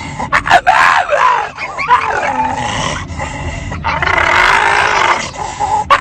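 A dog vocalizing in a run of drawn-out, wavering calls whose pitch slides up and down, the longest one about four seconds in.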